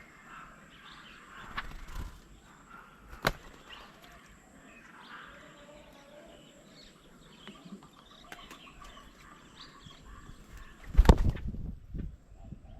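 Small birds chirping and calling around a garden bird table, with a few sharp knocks in the first few seconds. Near the end comes a loud, low thump and rumble, the loudest sound here.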